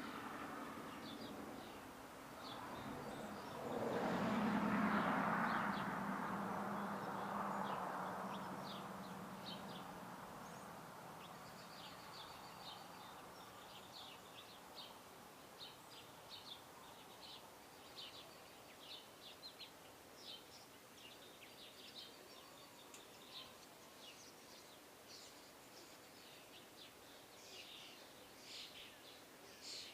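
Small birds chirping, many short high chirps coming thick and fast through the second half. Early on, a broad noise with a low hum swells about four seconds in and fades away over the next several seconds.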